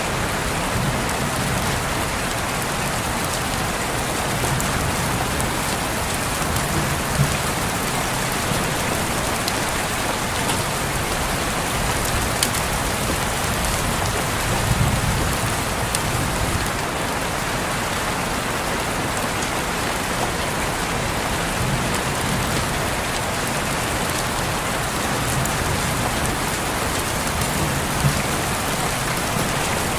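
Steady rain pattering on a window, with scattered sharper drop ticks and a faint low rumble swelling now and then.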